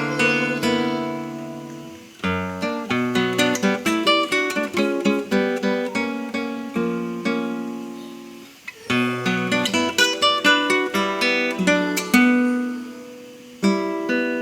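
Solo classical guitar played in quick runs of plucked notes, with phrases that ring and fade before the next begins.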